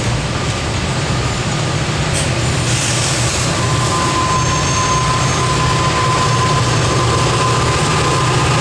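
Norfolk Southern SD40E diesel locomotive working under load as a rear pusher, its engine rumbling steadily. A steady wheel-flange squeal from the cars rounding a curve comes in about three and a half seconds in.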